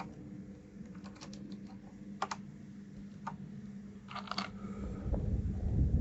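Scattered plastic clicks of keys and keycaps on a 1st Player DK 5.0 mechanical keyboard, a few at a time, over a steady low hum. A louder low rumble builds near the end.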